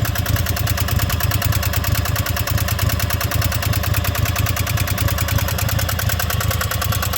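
Riding lawnmower engine running steadily with a rapid, even beat, and a knock that the owner hears from inside the engine.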